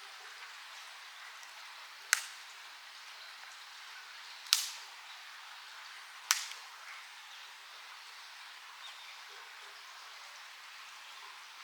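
Three sharp knocks or cracks, each with a short ring-out and a couple of seconds apart, over a steady soft hiss.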